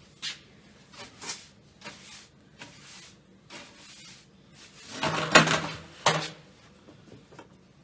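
Stored tools and gear being rummaged through and moved by hand: a string of light knocks and clicks, with a louder clatter of several knocks about five seconds in.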